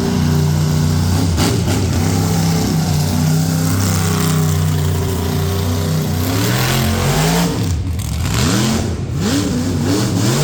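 Monster truck engine running hard at high, steady revs while spinning donuts. Over the last few seconds it is revved up and down in a string of quick rises and falls.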